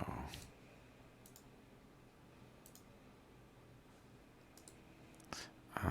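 A few faint, scattered computer mouse clicks, with a sharper click near the end, over a low steady room hum.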